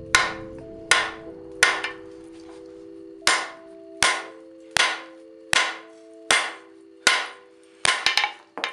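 Hammer blows forging a bar of iron on an anvil, a steady rhythm of sharp strikes a little faster than one a second. The blows pause briefly about two seconds in and end in a quick flurry of lighter taps. Background music with sustained notes plays underneath.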